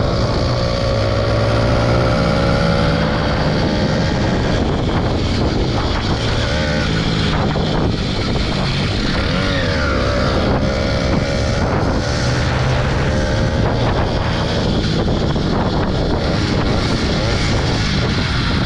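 Motorbike engine running while being ridden, its pitch rising and falling with the throttle, with wind noise on the microphone. The bike has a newly fitted rear sprocket and wheel that gives more top speed but slower pickup.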